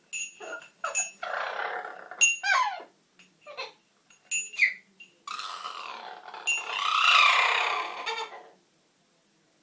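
Pet parrot vocalising: short chirps and clicks, a few quick squeaks sliding up and down in pitch, and two long harsh, growl-like squawks, the second and loudest from about five to eight and a half seconds in.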